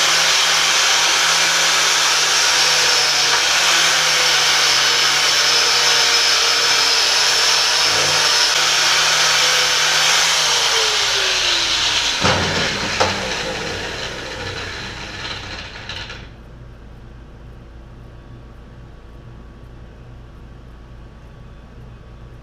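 Handheld rotary power tool buffing the cast-iron engine block's surface clean, a loud steady whir. About twelve seconds in it is let off and spins down with a falling pitch and a couple of knocks, stopping about sixteen seconds in.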